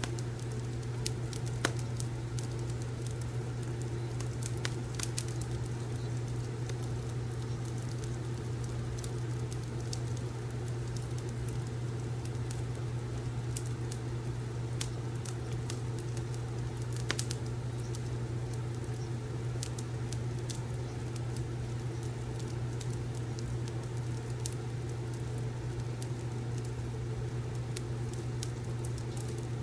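Wood fireplace crackling, with irregular small pops and snaps, a sharper pop about two seconds in and another about seventeen seconds in, over a steady low hum.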